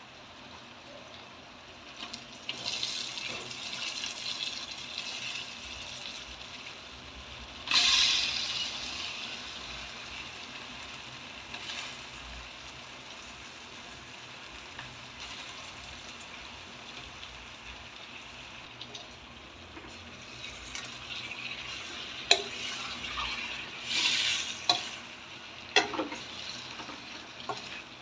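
Chicken gizzard curry frying and sizzling in a hot pan as it is stirred. There is a sudden louder burst of sizzling about a third of the way in, and several sharp knocks of the spatula against the pan near the end.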